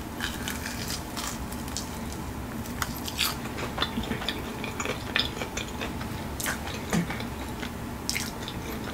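Biting into and chewing an air-fried, Flamin' Hot Cheetos-crusted chicken wing: irregular crisp crunches and crackles of the coating, close to the microphone.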